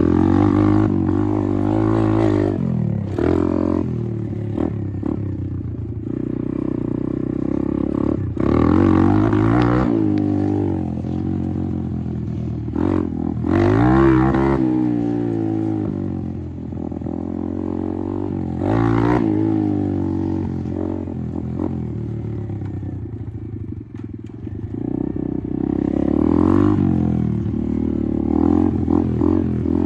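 Apollo RFZ 125 dirt bike's single-cylinder four-stroke engine under way, revving up and easing off again several times, with steadier running in between.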